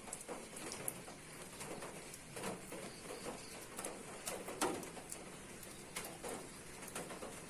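Pigeons or doves cooing, a few soft low calls spaced a second or two apart, over scattered light ticks.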